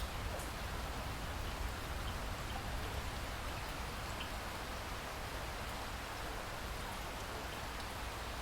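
Steady rain falling on a lake: an even hiss with scattered faint drop ticks.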